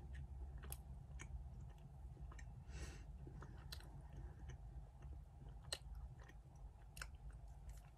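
Faint chewing of a piece of solid white chocolate, with soft mouth clicks scattered through it over a low steady hum.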